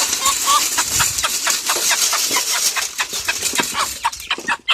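Chicken feed being poured out onto the ground: a loud, grainy hiss that cuts off suddenly near the end, with chickens clucking.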